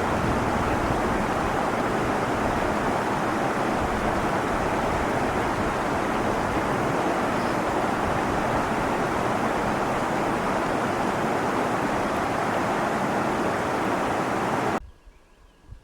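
Steady rushing noise of strong wind together with fast-moving water, even and unbroken, stopping abruptly about a second before the end.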